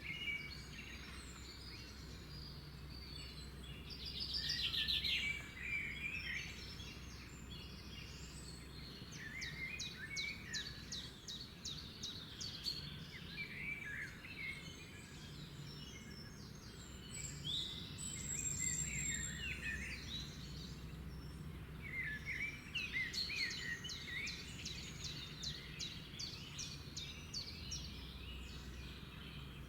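Several wild birds singing and calling at once: overlapping chirps, short slurred whistles and rapid trills, coming in bursts, with a faint steady low hum underneath.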